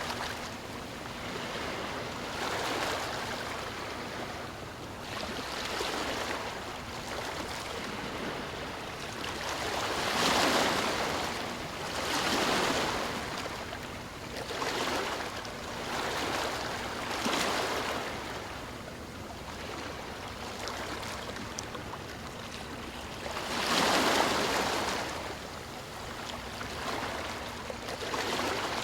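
Ocean waves surging and washing in, a swell of surf noise every two to three seconds, the biggest about ten and twenty-four seconds in.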